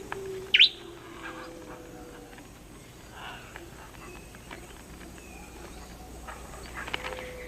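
Rainforest ambience with animal calls: one sharp, loud sweeping call about half a second in, then faint short whistles and scattered clicks.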